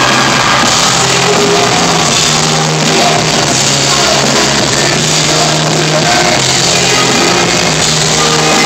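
Loud rock music with a singer: a band playing steadily with vocals over it.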